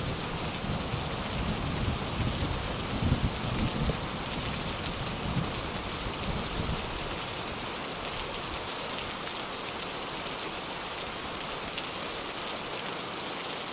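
Steady rain falling, an even hiss with no pauses, while a low rumble of thunder dies away in the first half.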